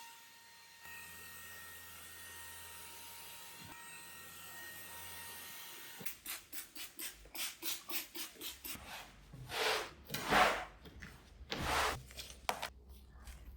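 Cleaning by hand: brisk rubbing or scrubbing strokes, about two a second, start about six seconds in, with a few longer, louder strokes near the end. Before them there is only a faint steady hum.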